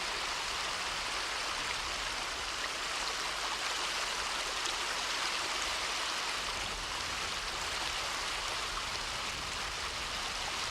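Steady rush of fast-flowing river water, an even hiss that does not change.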